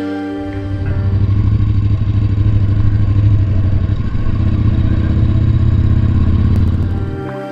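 Motorcycle engine running, a low, rapid flutter that swells about a second in, holds steady, then fades near the end.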